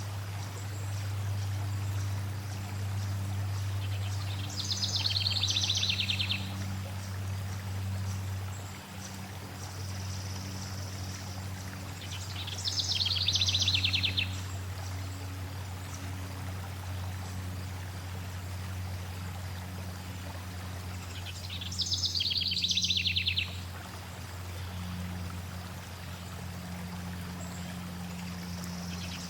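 Flowing water running steadily with a low rumble, while a small bird sings a quick high trill three times, each about two seconds long and about eight or nine seconds apart, with a fourth starting at the very end.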